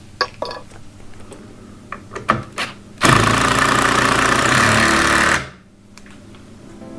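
A few knocks and clicks, then a power tool runs loud and steady for about two and a half seconds and winds down.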